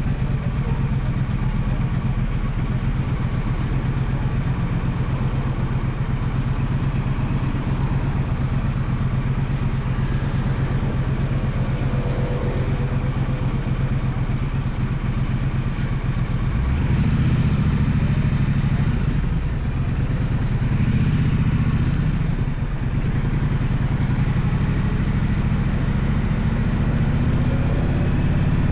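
Gaokin GK1200 motorcycle engine running under way, a steady low exhaust note that gets louder and fuller about two-thirds of the way in as the bike pulls harder, easing briefly before picking up again.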